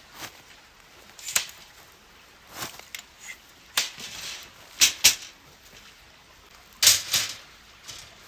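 A series of irregular sharp clicks and knocks, about eight or nine in all. The loudest come in two pairs, about five seconds in and about seven seconds in.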